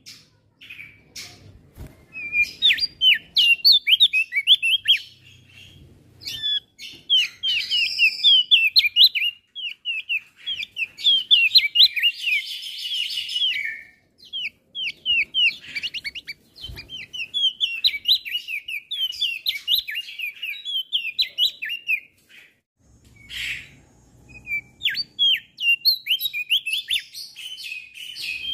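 Male crested white-eye (opior jambul) singing: rapid runs of high chirps and short sweeping notes with brief pauses, and a dense buzzing trill around the middle.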